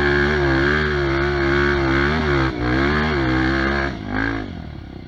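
Trail motorcycle engine running hard at steady high revs, its pitch wavering slightly under load, then easing off about four seconds in with a brief blip of throttle before dropping away.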